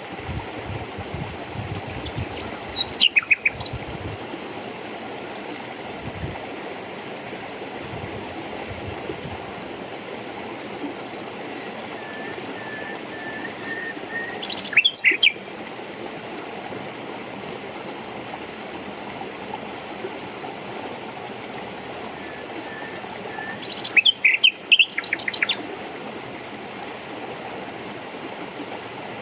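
Birds chirping in three short bursts, with a soft run of repeated piping notes between them, over the steady rush of running water.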